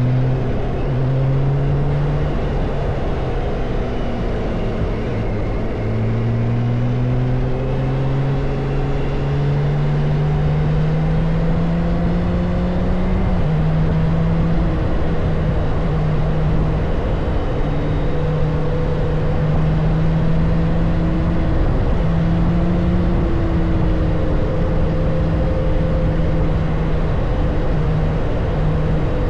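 BMW K1600 B's inline-six engine heard through its stock exhaust while riding. The engine note climbs under acceleration, drops suddenly at a gear change about halfway through, then holds nearly steady at cruise, over a constant rush of road and wind noise.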